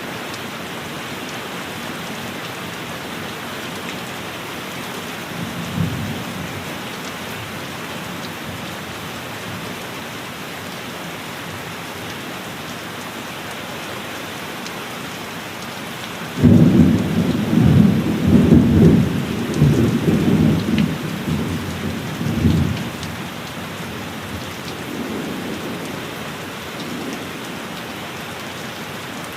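Steady heavy rain falling, with a short low rumble of thunder about six seconds in and a loud, rolling thunderclap starting suddenly past the halfway point and lasting about six seconds before fading, then a fainter rumble near the end.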